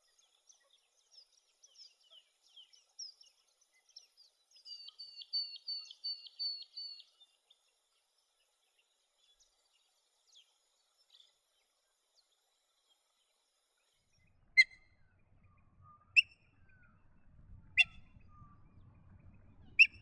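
Wild birds calling. Thin high chirps and song notes in the first several seconds, peaking in a fast run of repeated paired notes. Later, four sharp, loud single calls about two seconds apart, over a faint low rumble.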